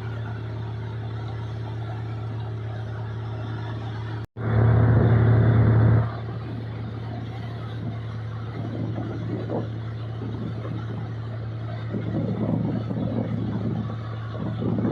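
Combine harvester's diesel engine running steadily with a low hum. About four seconds in, the sound cuts off for a moment and comes back louder for about a second and a half. In the second half, uneven louder noise rises and falls over the engine.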